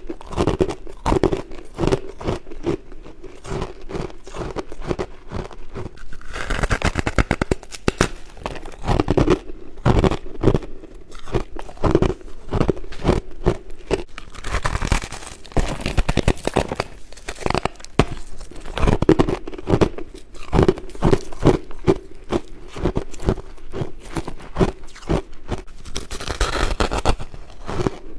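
Person biting and chewing soft, fluffy white frost close to the microphone: a continuous run of crisp crunching and crackling, with the chewing coming in quick repeated strokes.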